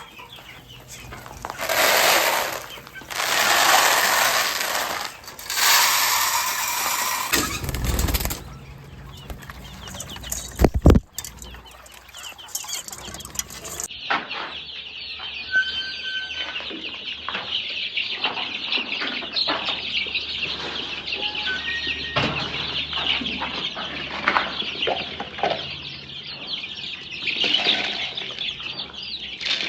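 Poultry flock calling: loud bursts of clucking in the first half, a sharp thump a little before the middle, then after a cut a dense, steady chatter of many short high peeps and clucks.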